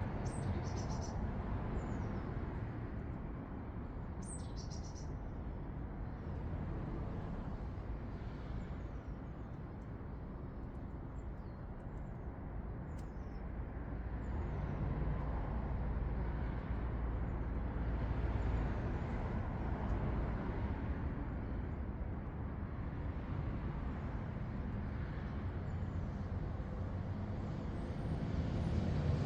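Steady low rumble of distant road traffic, with short high-pitched bird chirps now and then, the clearest near the start and about four seconds in.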